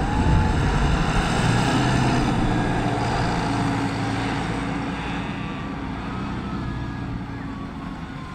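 Tractor engine running, growing steadily fainter as the tractor moves away.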